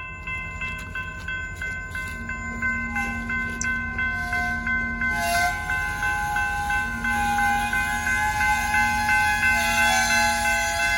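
Railroad crossing bell ringing in a fast, even rhythm while a train starts to roll through the crossing, with a wavering metallic squeal over it.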